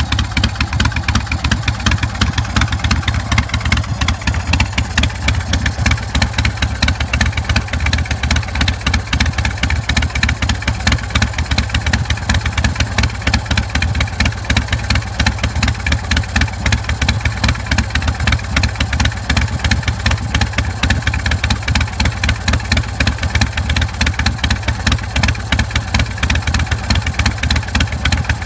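Big Dog K9 chopper's carbureted 117 cubic inch S&S V-twin idling steadily through a Vance & Hines Big Radius exhaust, with a quick, even pulse of exhaust beats and no revving.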